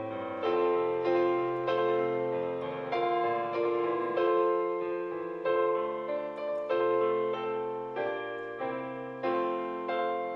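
Background music: a slow piano arrangement of a hymn, with chords struck about once every half second to second.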